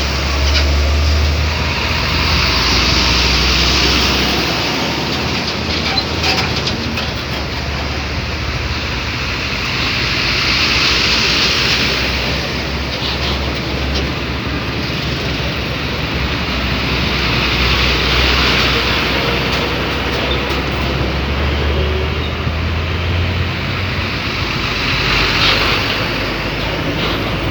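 Dump truck running on the road: a steady engine and road-noise rumble whose low end swells and fades every few seconds.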